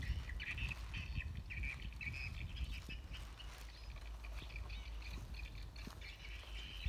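Birds chirping in short repeated calls, over a steady low rumble of wind on the microphone.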